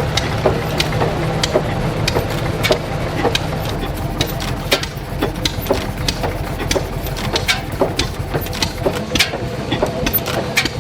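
A large vintage single-cylinder air-cooled engine running, a steady low hum with sharp mechanical clacks a few times a second.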